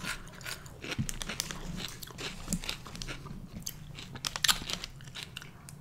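Crunchy chewing and biting: a string of irregular sharp crunches and mouth clicks, loudest about four and a half seconds in.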